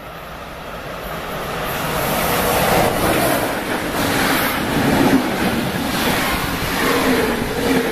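Passenger train running through a station at speed. The noise builds over the first two seconds or so as it approaches, then holds as a steady rush and rumble of wheels on rail while the coaches pass close by.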